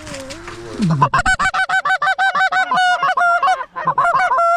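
Goose honking: a fast, loud run of short honks and clucks, several a second, starting about a second in after a low drawn-out note.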